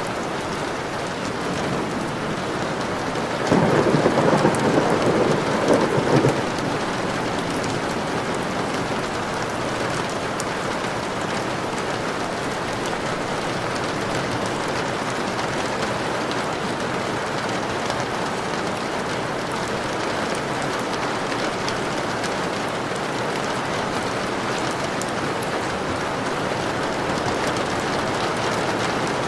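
Steady rain with a roll of thunder a few seconds in that lasts about three seconds.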